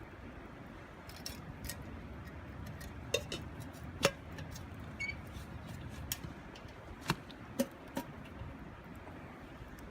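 Wood burning in a small wood stove, crackling with scattered sharp pops, the loudest about four seconds in, over a steady low rush.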